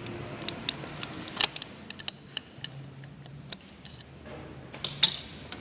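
Irregular sharp metallic clicks and taps of a screwdriver working the set screw on the second rotary hook of a twin-needle industrial sewing machine, loosening it. The loudest click comes about five seconds in.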